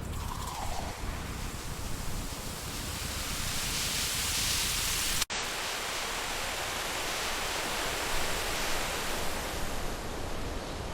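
Steady rushing splash of water from a running fountain, with a brief dropout about five seconds in where the sound cuts and picks up again.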